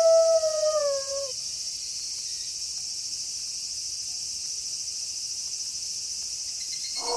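A wolf's howl holds one long note, then slides down and fades out about a second in. A steady high chorus of night insects carries on alone, and another howl begins near the end.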